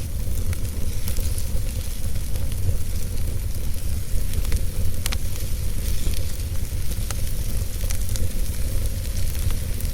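Wood fire burning in a fireplace: a steady low rumble and hiss of the flames with scattered sharp crackles and pops of the burning logs.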